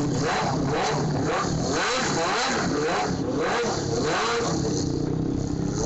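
Stunt motorcycle engines revving up and down over and over, their pitch rising and falling repeatedly.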